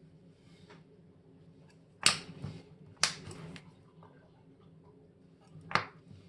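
Three sharp clicks of small metal tools or watch parts being handled and set down on a watchmaker's bench, two about a second apart with a short rustle after each, then one more near the end.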